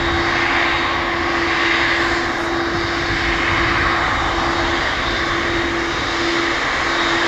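The twin jet engines of a Boeing 767-300ER giving a steady, loud roar as the airliner rolls out on the runway after touchdown, with a steady hum under the noise.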